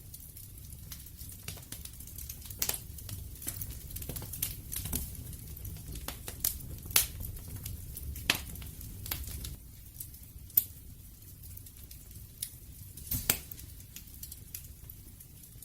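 Wood fire crackling and popping: irregular sharp snaps over a low rumble of flame, busiest in the first half.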